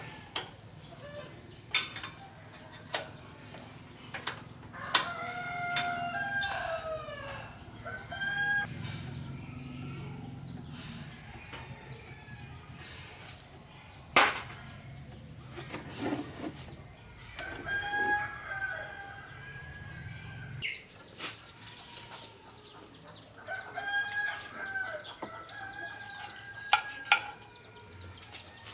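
Roosters crowing several times, each crow a drawn-out call lasting one to two seconds, with scattered sharp knocks in between and a low hum that stops about two-thirds of the way through.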